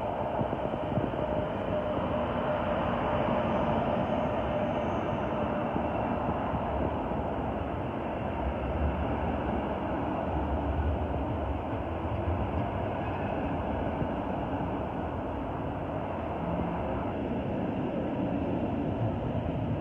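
A locomotive-hauled double-deck passenger train running past on the tracks: a steady rumble and rush of wheels on rail as the coaches go by, with a stronger low rumble about halfway through.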